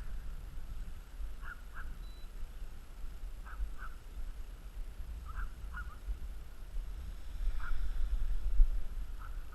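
Short honking bird calls, often in pairs, repeating every second or two, over a low rumble of wind on the microphone that swells for a couple of seconds near the end.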